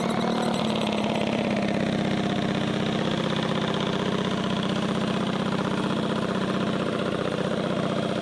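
A mini bike engine idling steadily, with a fast, even firing rhythm.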